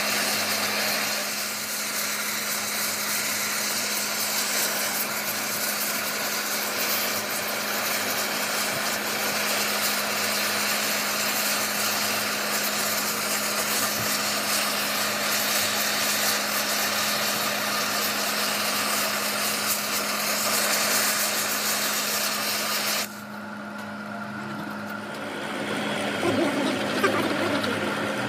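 A power tool working metal runs steadily with a harsh, hissing noise over a constant low hum, then cuts off suddenly about 23 seconds in. Another machine sound builds up near the end.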